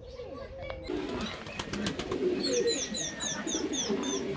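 Aviary birds calling: low, soft cooing throughout, with a quick run of about eight high, falling chirps in the middle.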